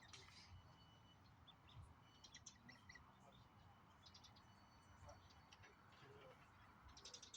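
Faint, high-pitched peeping of Eurasian coot chicks, in short clusters of rapid peeps every second or two.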